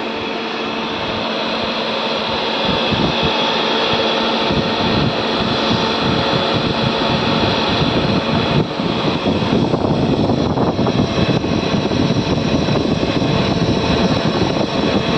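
Test-bench machinery running: a steady whir with a hum and several steady tones, growing louder over the first three seconds and then holding, consistent with the repaired variable-frequency drive and its load running on test.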